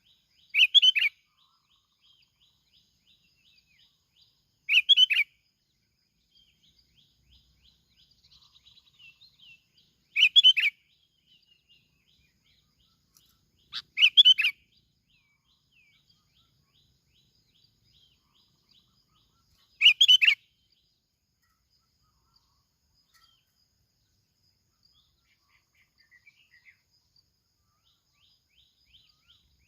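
Yellow-vented bulbul giving short, loud call phrases five times, a few seconds apart, with faint rapid bird chatter behind them in the first half.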